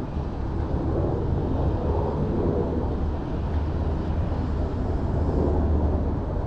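Black Hawk helicopter in flight: a steady low rumble of its rotor and engines.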